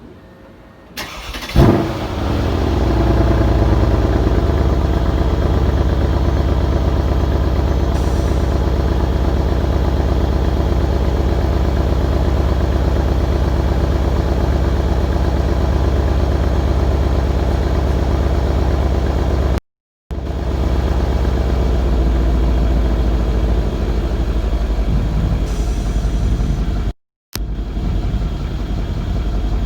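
2015 Mercedes-AMG CLS63 S twin-turbo V8 cold start: the starter cranks briefly about a second in, the engine catches with a loud flare, then settles into a steady, high cold idle. The sound cuts out to silence twice, briefly, in the second half.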